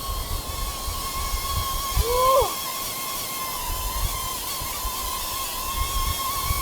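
DJI Neo 2 mini drone flying under its automatic take-off, its propellers giving a steady high whine, with wind rumbling on the microphone. A brief sliding tone rises and falls about two seconds in.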